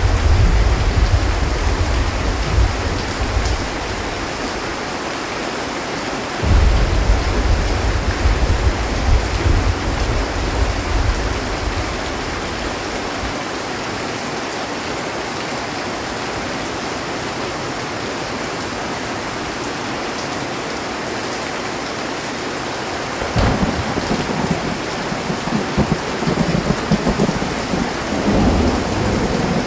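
Heavy rain drumming steadily on a metal roof, with rolling thunder. A rumble at the start dies away within a few seconds, a second rumble comes in suddenly about six seconds in, and near the end a sharp crack starts a longer spell of rumbling.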